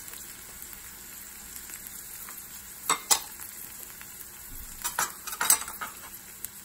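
Diced carrot, red onion and fried tofu sizzling steadily in sunflower oil in a stainless steel pan, with a few sharp clinks against the pan about three seconds in and again around five seconds.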